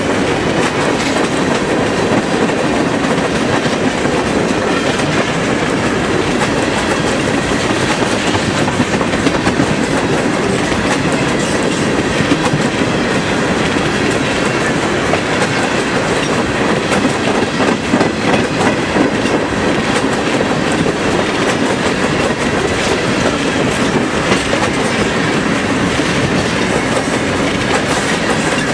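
Train rolling past close by, its wheels clacking steadily over the rail joints.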